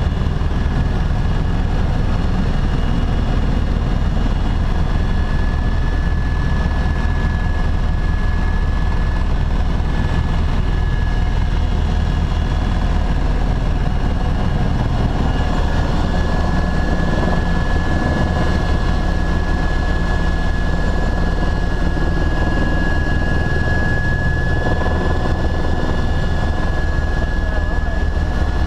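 Tour helicopter in flight: steady, loud rotor and engine noise with a thin, steady high whine running over it.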